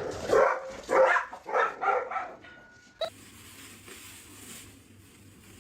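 A pet animal calling in a quick run of about five loud calls over two and a half seconds, followed by a brief steady tone, a click, and then only low background noise.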